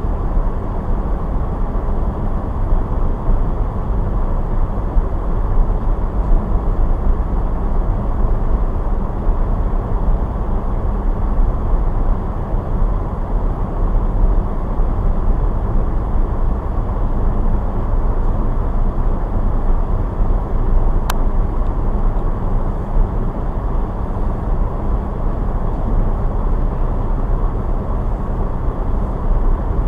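A car driving: steady low road and engine rumble, with one brief sharp click about two-thirds of the way through.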